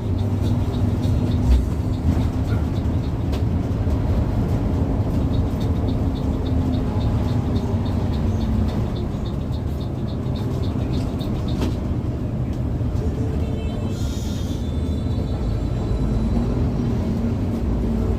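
Steady drone of a moving intercity bus heard from inside the cabin: engine hum and road rumble, with music playing along.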